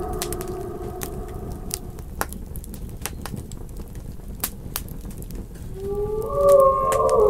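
Campfire crackling with scattered sharp pops. A wolf's howl fades out at the start, and near the end several wolves begin howling together at different pitches, getting louder.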